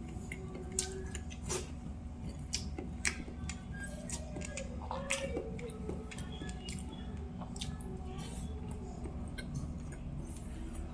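Close-up eating sounds: chewing a mouthful of rice and sautéed string beans, with scattered small clicks of a utensil against a plate, over a steady low hum.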